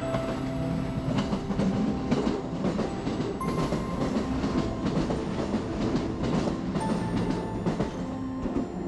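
Electric commuter train passing directly below, with a steady rumble and repeated clacking of wheels over the rail joints. Background music plays over it.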